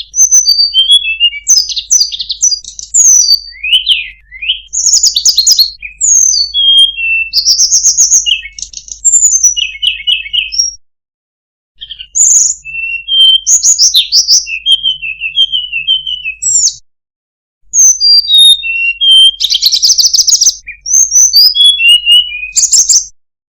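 Recorded songbird song: a rapid, varied run of high whistled notes, chirps, glides and trills in phrases. It is cut by short gaps of dead silence about 11 and 17 seconds in.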